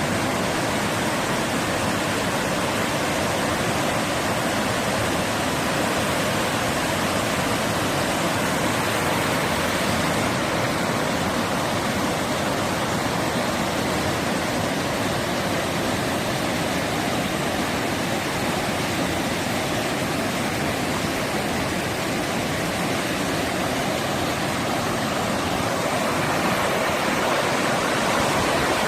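Sea waves: a steady, even rush of surf without distinct separate breakers.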